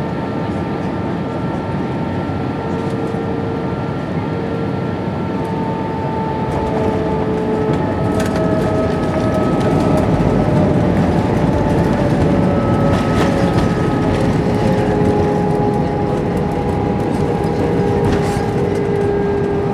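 Airbus A320 cabin noise while the aircraft rolls on the ground after landing: the IAE V2500 engines' hum, with several tones slowly sliding down in pitch, over a steady rumble of the wheels. A few light knocks come through, and the rumble swells a little about halfway through.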